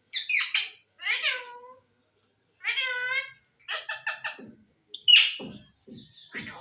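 Pet green parrot calling: a series of short, high, pitched calls that bend in pitch, about one a second, with a few low knocks near the end.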